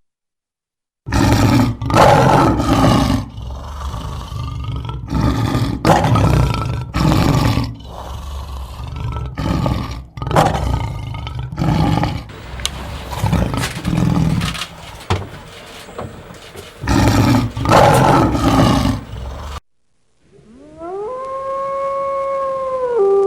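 Lion roaring: a long run of loud, deep roars with pauses between them. Near the end a wolf starts to howl, a smooth call that rises and then holds.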